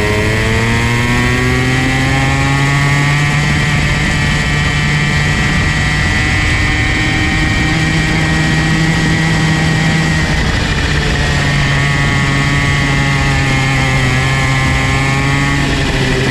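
Comer C50 50cc two-stroke go-kart engine running under load, its revs climbing over the first few seconds, holding high, easing off briefly about ten seconds in, then rising again before dropping near the end.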